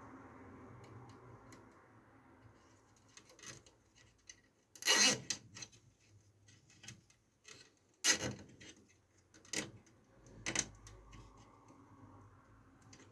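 Hands working cables and cable ties into a PC case: scattered small clicks and four short rubbing scrapes, the loudest about five and eight seconds in.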